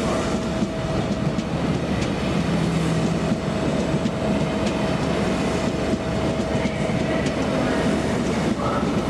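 A train running on the rails: a steady rumble with a steady hum and faint clicks from the wheels.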